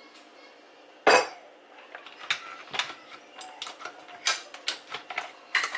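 Parts of a juicer being handled and taken apart: one loud knock about a second in, then a quick run of clicks and clatters.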